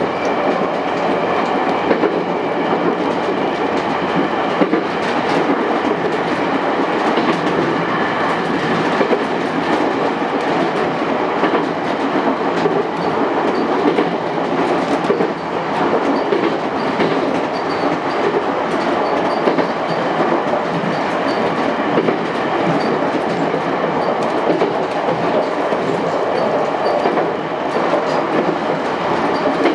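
Chichibu Railway 7500 series electric train running steadily between stations, heard from the front car: a constant rumble of wheels on rail with the clickety-clack of the wheels over rail joints, and scattered clicks.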